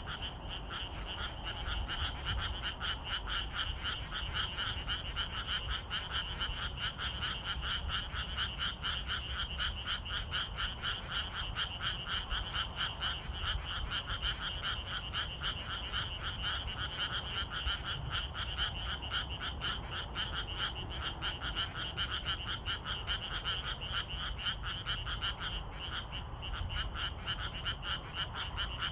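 Chorus of many frogs calling at once, a dense run of rapid, pulsing croaks that overlap without pause, thinning briefly near the end.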